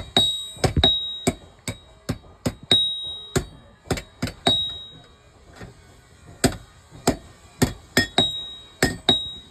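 Hammer blows on iron, irregular at about two or three a second, many leaving a short high metallic ring, as a hole is punched through iron by hand; there is a brief pause in the middle.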